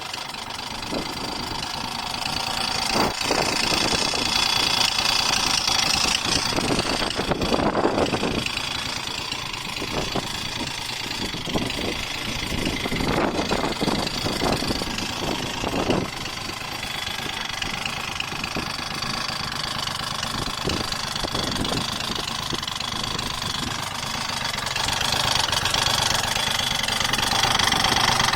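Honda Gyro Canopy scooter engine running, with intermittent knocks over its steady note: the abnormal noise the owner is recording.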